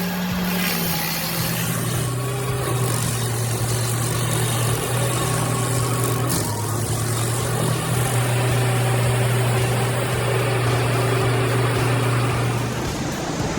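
Stump grinder's engine running steadily, with a low even hum that stops near the end.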